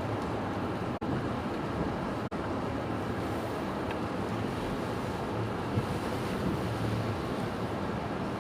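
Strong storm wind, a steady rushing noise, cut by two brief dropouts about one and two and a half seconds in.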